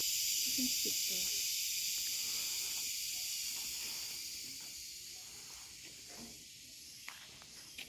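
Cicadas in the rainforest, a high-pitched steady buzz that slowly fades away over several seconds.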